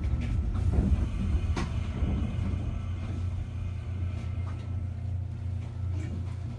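Electric train moving slowly, heard from inside the car: a steady low hum with a few light clicks and knocks.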